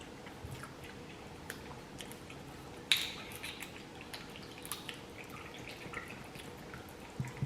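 Close-miked eating: small wet clicks and smacks of a mouth chewing food, with one sharper click about three seconds in.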